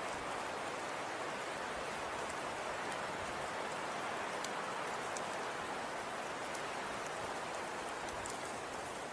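Falling snow: a steady, even hiss with faint scattered ticks of snow landing.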